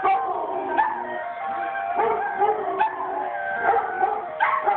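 Dogs barking and howling over an ice cream truck's jingle, with sharp barks every second or so.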